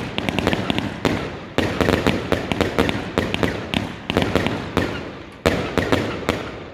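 Fireworks going off in a rapid barrage of sharp bangs and crackles, several a second, that stops and dies away near the end.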